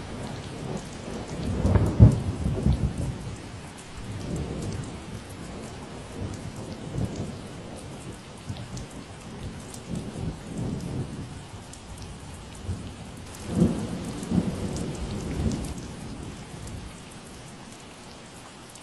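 Steady rain falling, with low rolling rumbles of thunder swelling up, the loudest about two seconds in and another around fourteen seconds in.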